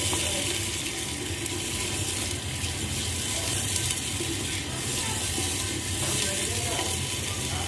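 Chopped tomatoes, onions and green chillies frying in ghee and a little water in a clay pot, a steady sizzling hiss, stirred with a spoon.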